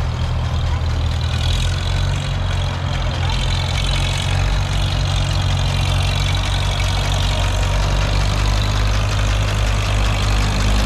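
Antique tractor engine running steadily with a deep, even note.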